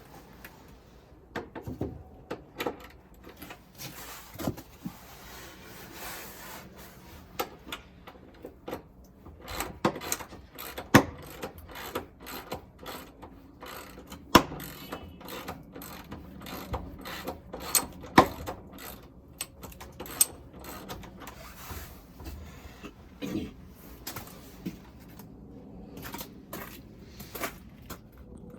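Irregular clicks and knocks of hand-tool work on gate hardware, with a few louder knocks around the middle.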